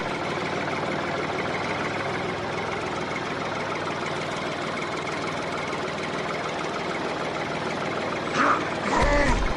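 Steady engine-like running drone, with two short loud pitched sounds near the end.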